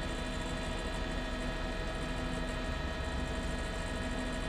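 Steady drone of a helicopter's engine and rotors heard from inside the cabin, with a constant whine made of several fixed tones.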